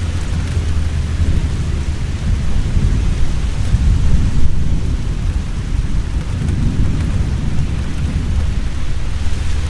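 Heavy rain falling steadily with a deep, continuous rumble of thunder beneath it, swelling a little around the middle.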